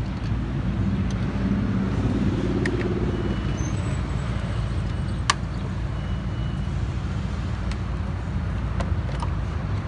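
Steady low hum of a car engine running, with a handful of sharp clicks as a screwdriver works the door mirror's mounting screws, the loudest about halfway through.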